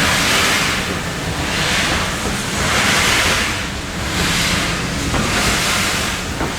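Steam locomotive working slowly, its exhaust beats coming as rhythmic hissing chuffs about once a second over a low rumble.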